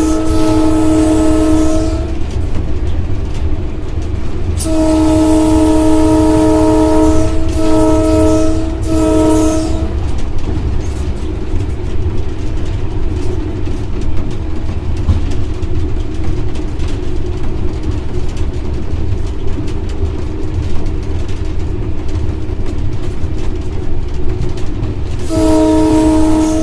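GMU-30 diesel locomotive's air horn sounding a multi-note chord. A blast ends about two seconds in; a long blast and two shorter ones follow around the middle of the first third; another blast starts near the end. Throughout, the steady low rumble of the locomotive running at speed.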